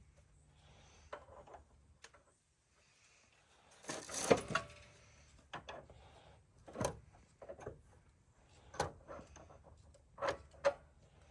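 Scattered workshop knocks and clanks of tools and metal parts being handled, the loudest cluster about four seconds in and a few single knocks after it.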